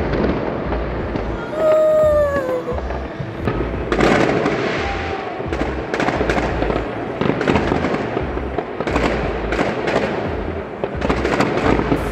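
Fireworks going off overhead: a falling whistle about two seconds in, then from about four seconds in a dense run of sharp bangs and crackles.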